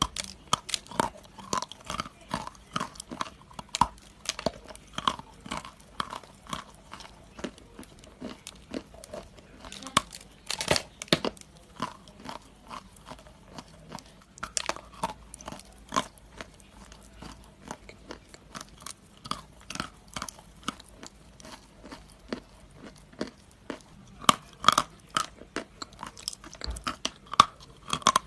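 Close-up chewing of crunchy food: a run of sharp crunches, several a second, with louder bites now and then.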